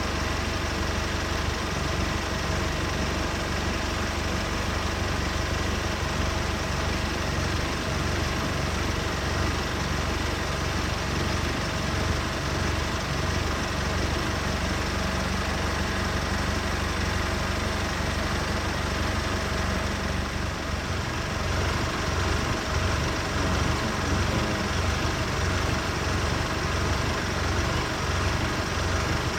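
Safari game-drive vehicle's engine idling steadily, a low even hum; its note shifts a little about twenty seconds in.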